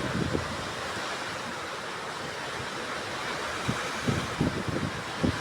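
Storm wind and heavy rain making a steady rushing hiss. From a little past the middle, gusts buffet the microphone in low thumps.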